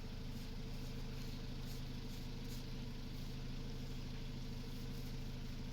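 An engine running steadily, a constant low hum that does not change in pitch or loudness.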